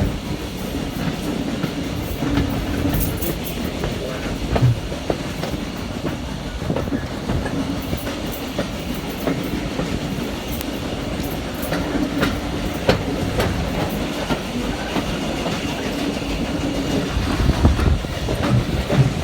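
Steam-hauled heritage railway carriage on the move: a steady rumble of wheels on the track, with irregular clicks and knocks as the wheels cross rail joints.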